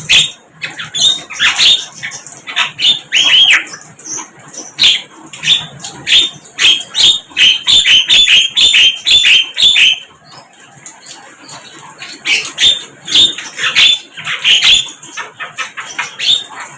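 Sikatan londo (a blue flycatcher) singing: fast runs of sharp, high chirping notes, with a short pause about ten seconds in before another run.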